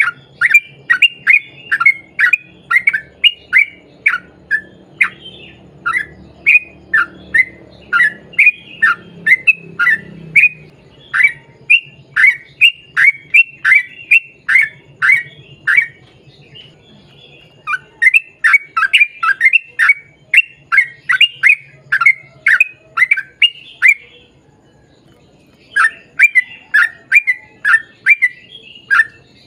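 Yellow-vented bulbul (trucukan) calling in long rapid runs of short, falling notes, about three a second, broken by two short pauses.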